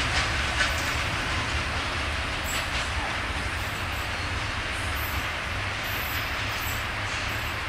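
Freight train of high-sided open wagons rolling away over the track: a steady rumble of wheels on rail, with a few sharp wheel clicks in the first second.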